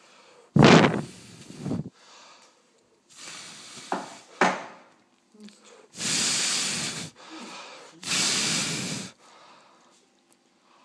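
Repeated bursts of blown air, each about a second long, hissing and breaking off sharply, with quieter gaps between.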